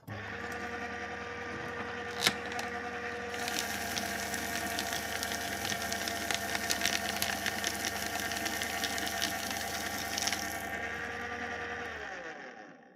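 Electric paper shredder switching on with a steady motor hum and a click about two seconds in. It then shreds paper for about seven seconds, a dense crackling over the hum, before the motor runs down and stops near the end.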